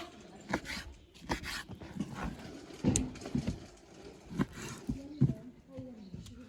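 A dog whimpering in short whines, mixed with irregular knocks and clicks.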